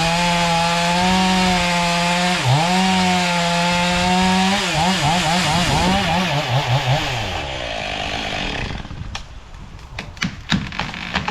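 Two-stroke chainsaw running at full throttle, its pitch dipping briefly about two seconds in as it loads in the cut. From about halfway it is revved up and down in quick blips, then winds down and drops away, followed by a few sharp knocks near the end.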